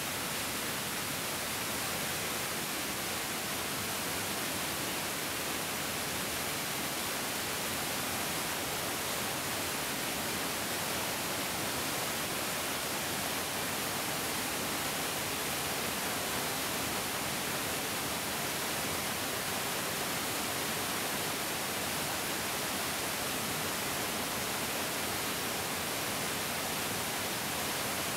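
Mountain stream water flowing and rushing over rocks: a steady, even hiss-like rush with no changes.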